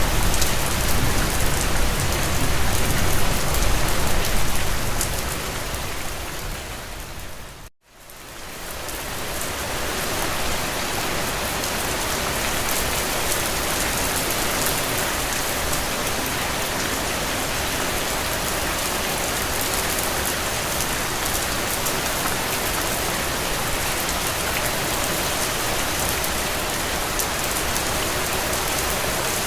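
Steady rain pattering on a window. It fades out to a moment of silence about eight seconds in, then fades back in with less low rumble, as at a loop or splice point in the recording.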